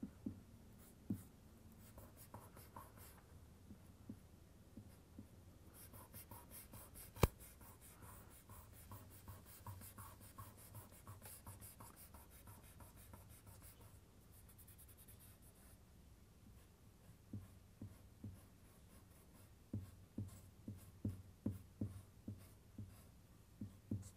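Faint drawing sounds on paper: rapid back-and-forth rubbing strokes from about six to sixteen seconds in, one sharp tap about seven seconds in, and a run of light taps near the end.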